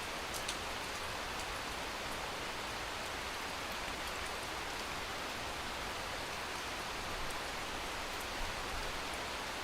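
Steady rain falling: an even hiss, with a few faint drop ticks here and there.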